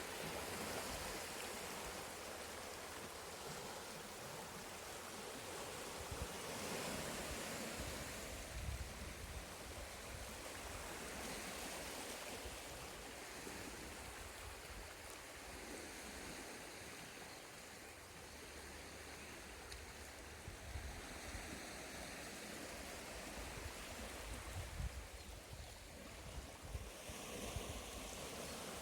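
Sea waves washing onto the shore, a steady rush that swells every few seconds as each wave comes in, with a low rumble of wind on the microphone underneath.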